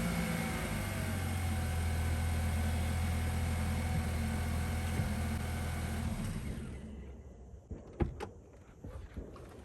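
Car engine idling steadily, then shut off about six seconds in; a few sharp knocks follow.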